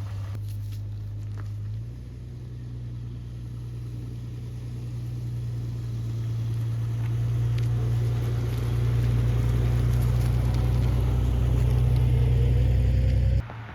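An engine running steadily with a low drone, growing louder, then cut off abruptly just before the end.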